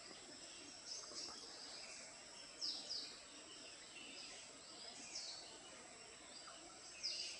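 Faint outdoor ambience of bird calls, short falling notes every second or two, over a steady high hum of insects.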